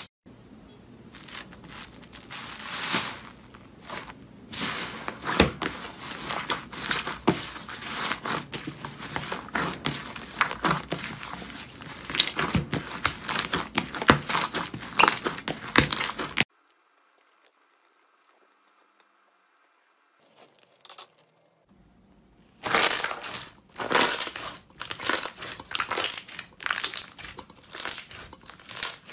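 Slime being squeezed, pressed and stretched by hand, giving dense sticky crackling and popping. The crackling stops for about six seconds past the middle, then starts again.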